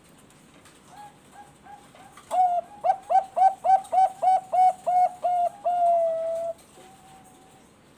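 Zebra dove (Bangkok-bred perkutut) singing: a few soft coos, then a run of loud, rapid coos about three a second, ending in one long drawn-out note.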